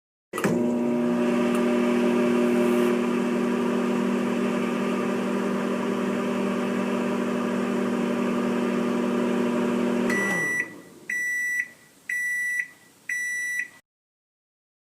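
Microwave oven running with a steady hum for about ten seconds, then four high beeps about a second apart, signalling that the cooking cycle has finished.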